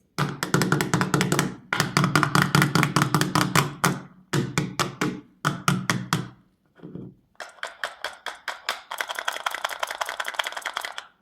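Hard candies clattering into a hollow container in quick runs of clicks, several a second, in four or five spells with short pauses between.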